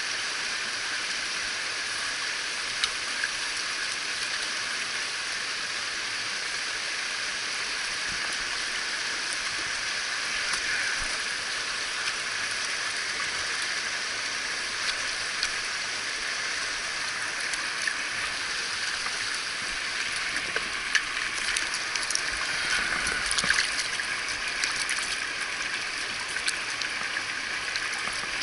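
Mountain stream water rushing over rocks, a steady rushing sound. A few short, sharp ticks and splashes stand out over it in the second half.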